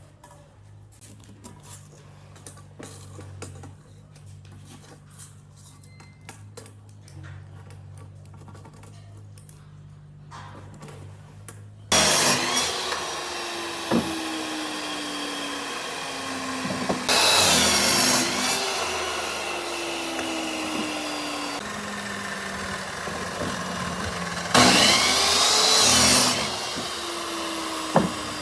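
Faint clicks and handling noises, then about twelve seconds in a power tool starts up suddenly and works wood. Its motor pitch sags again and again under load, and there are two louder passes.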